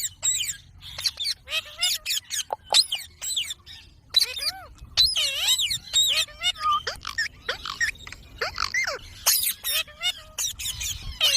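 Indian ringneck parakeet squawking and chattering: a rapid string of short, high-pitched calls that glide up and down in pitch.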